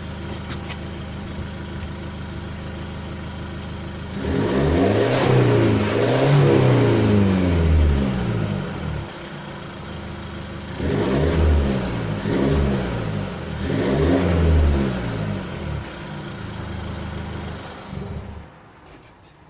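Kia Sportage 4 CRDi diesel engine with no muffler, idling, then revved up and down in two bursts of several blips each before settling back to a loud, rough idle; the sound drops away near the end.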